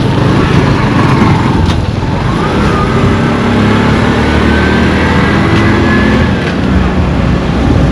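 A motor vehicle's engine running close by, its pitch rising a little and then holding for a few seconds in the middle, over a constant low rumble of wind on the microphone.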